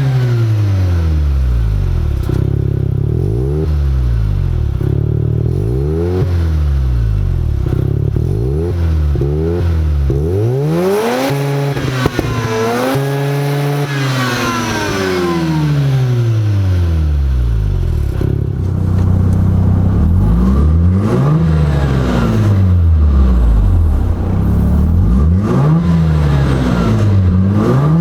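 Mazda RX-7 FC3S Turbo II's turbocharged 13B twin-rotor rotary engine, breathing through an Apexi downpipe and Fujitsubo Legalis R exhaust, revved over and over in short blips that rise and fall. About halfway through it makes one longer, higher rev that is held briefly before dropping back.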